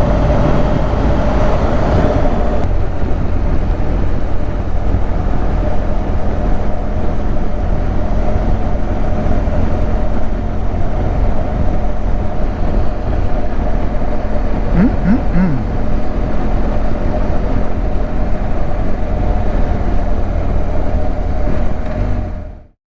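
Motorcycle riding at a steady speed: a constant engine drone under heavy wind and road noise, fading out quickly near the end.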